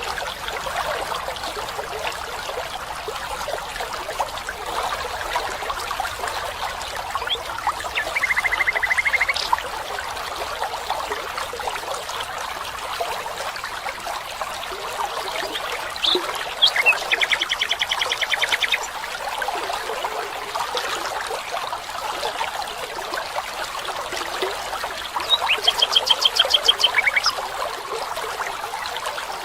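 Steady trickling of flowing water, with three rapid trilling animal calls of about two seconds each: one about a third of the way in, one around the middle, and a higher one near the end.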